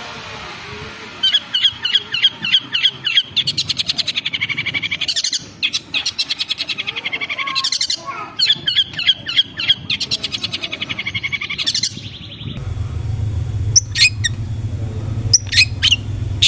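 Long-tailed shrike (cendet) singing fast runs of rapid, repeated chattering notes. Near the end the sound changes to a different recording: sharp, separate calls over a steady low hum.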